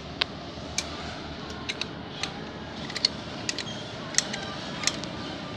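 Irregular sharp metallic clicks and taps, about a dozen, from hand tools working on a diesel engine as it is turned over by hand to find the next cylinder's top dead centre for valve adjustment.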